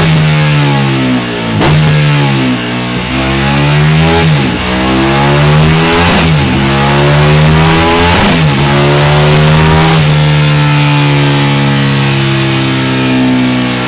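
Motorcycle with a Delkevic 14-inch oval carbon fibre exhaust accelerating hard. The engine note climbs and drops back sharply at each of about four upshifts, then runs at a fairly steady pitch near the end.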